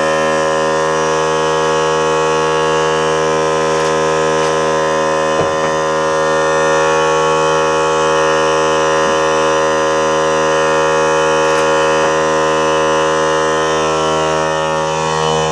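Small portable electric air compressor running, its motor and pump making a loud, steady drone that holds one pitch.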